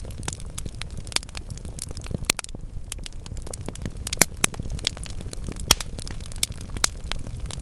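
Wood logs burning in a fireplace, crackling steadily with many irregular sharp pops over a low, even background of the fire; the loudest pops come about four and six seconds in.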